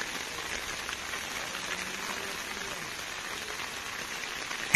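Steady rain falling, an even hiss, with a sharp click right at the end.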